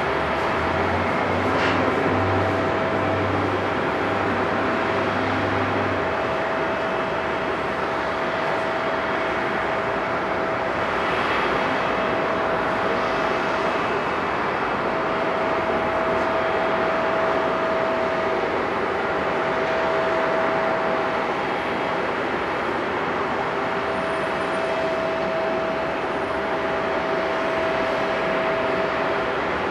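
Airbus A330-343 taxiing, its Rolls-Royce Trent 700 turbofans running at low power: a steady jet rumble with a thin, steady whine that drops out briefly now and then.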